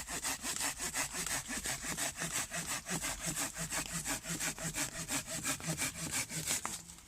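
Hand saw cutting through a piece of wood with quick, even back-and-forth strokes that stop near the end.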